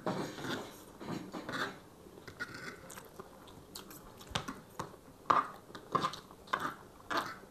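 Close-up chewing and biting of chow mein and chicken chilli, with several sharp clicks of forks against the serving tray in the second half.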